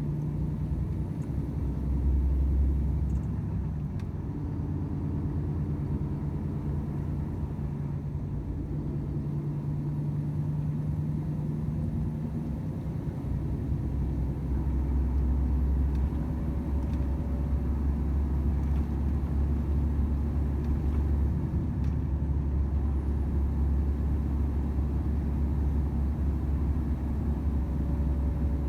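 Volvo FH 500 truck's 13-litre six-cylinder diesel running on the move, a steady low drone with road and tyre rumble, its engine note shifting a few times.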